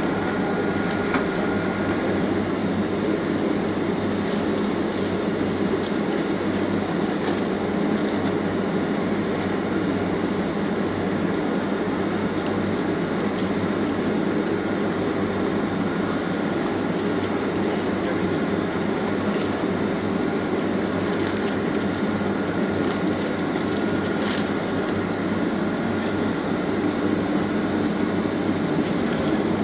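Boeing 767 cabin noise heard from a window seat: the steady hum of its Rolls-Royce RB211 engines at low power along with the air-conditioning flow, while the aircraft taxis before takeoff. Scattered light rattles and creaks of the cabin interior sound over it.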